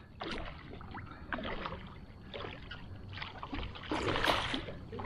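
Water splashing and sloshing around a kayak while a hooked redfish is fought near the boat, in uneven surges, with the loudest splash about four seconds in.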